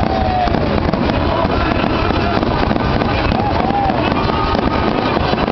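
A dense fireworks barrage: aerial shells bursting and crackling in rapid, overlapping bangs with no break. Music plays over a stadium PA system underneath.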